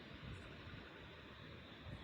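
Near silence: a faint, steady hiss with a little low rumble.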